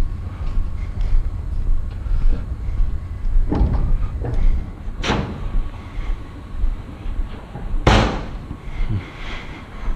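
A vehicle door slamming shut, two loud slams about three seconds apart with a lighter knock before them, over a low steady rumble.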